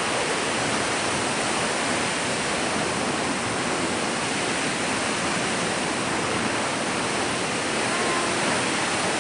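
Steady rushing of water, an even, unbroken roar.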